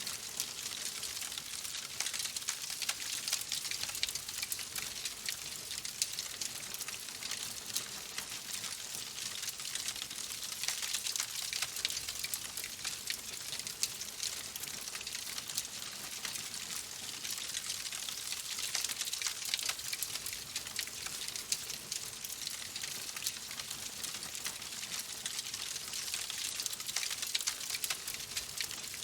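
Wood fire crackling in a fireplace: a steady hiss of burning with a constant scatter of small, sharp pops and snaps.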